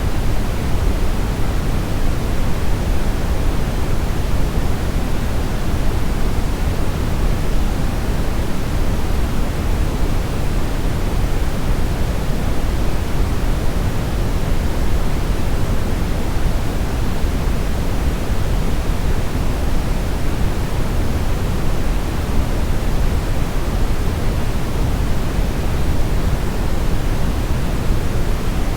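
Steady brown noise: a continuous, even rushing hiss weighted toward the deep bass, with no changes or events.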